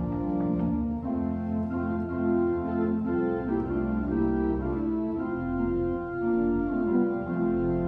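Organ playing slow, sustained chords over a held bass line, the harmony moving every second or so.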